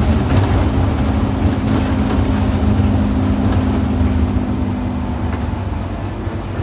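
Scania N230UD OmniCity double-decker bus running, heard from on board: a steady engine and road rumble, with a humming tone that holds from just after the start until about five and a half seconds in.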